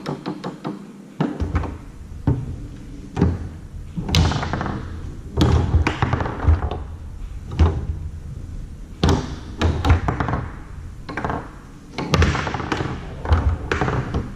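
Foosball played on a Tornado table: irregular sharp knocks and thuds as the ball is struck by the figures and bounces off the table walls.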